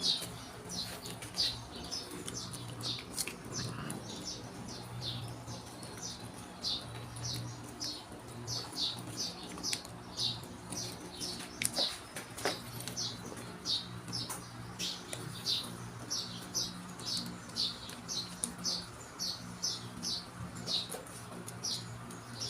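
A small bird chirping over and over, short high chirps at about two a second, over a steady low hum.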